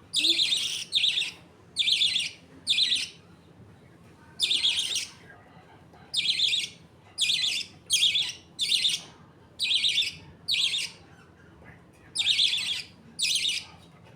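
Budgerigars giving loud, harsh chirping calls in a string of separate short bursts, roughly one a second with brief gaps.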